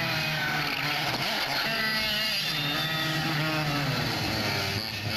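Rally car engine running hard, its pitch rising and falling as it revs.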